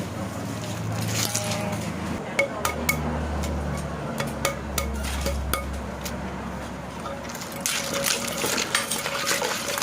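Kitchen utensils and dishes clinking and knocking during food preparation, in a run of separate sharp clicks. A low hum runs under the first two-thirds, and the clatter gets busier near the end.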